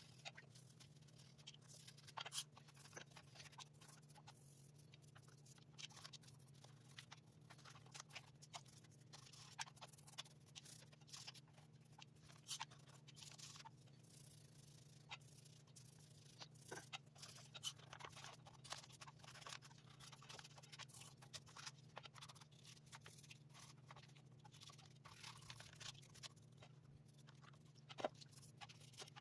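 Faint, scattered clicks and scrapes of small parts being handled during work on an RC truck, over a steady low hum. One click near the end stands out as louder.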